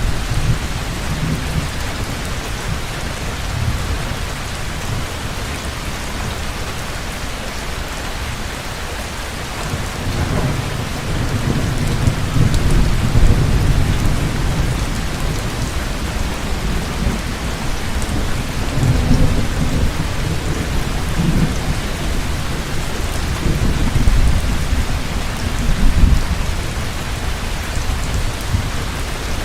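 Heavy rain pouring steadily, with rolling thunder rumbling underneath that swells about ten seconds in and keeps surging through the rest.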